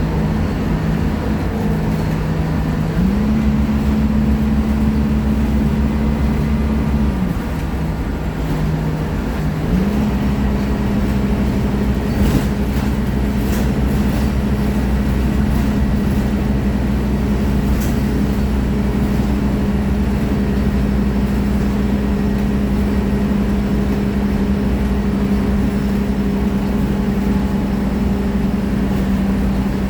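Scania K310IA articulated bus's diesel engine under way. The engine note climbs about three seconds in, falls back around seven seconds as the automatic gearbox changes gear, then climbs again near ten seconds and holds steady for the rest.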